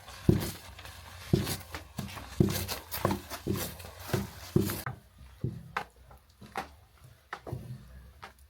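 A series of short knocks, about two a second, over a steady hiss that stops about five seconds in.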